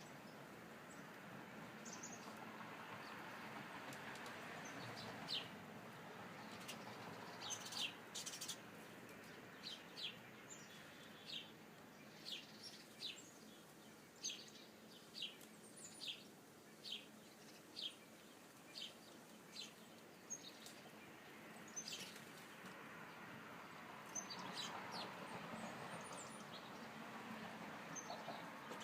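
Small birds at a feeder chirping: a run of short, high chirps about once a second through the middle, with a few more near the end, over a faint steady hiss.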